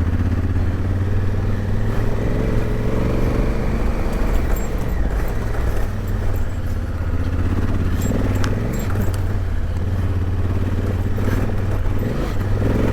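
Large adventure motorcycle engine running at low revs in second gear along a rough off-road track, its pitch rising and falling a little with the throttle. A few sharp clicks and clatters from the rocky trail come through.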